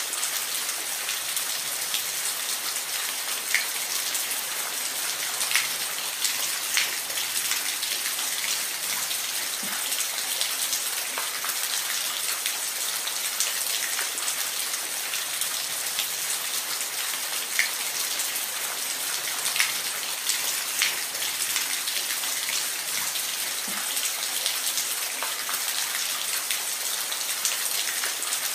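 Steady rain falling, with a constant hiss and scattered close drops ticking sharply on a surface.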